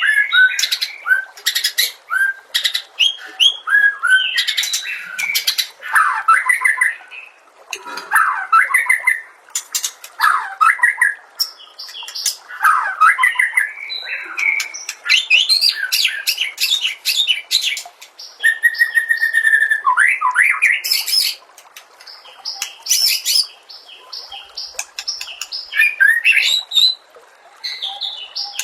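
White-rumped shama (murai batu) singing a long, varied song of whistled glides, rapid high chattering notes and harsher calls, in phrases a second or two long with brief pauses between them.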